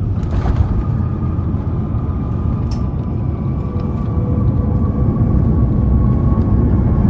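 Airbus A350-1000 cabin noise: a deep, steady rumble from the Rolls-Royce Trent XWB jet engines and airflow, with a thin steady whine and scattered light rattles of cabin fittings. It grows a little louder over the second half.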